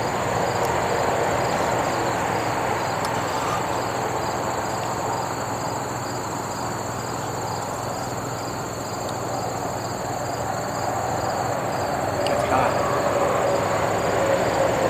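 Crickets chirping in a steady chorus, over a steady wash of background noise that grows louder in the last few seconds.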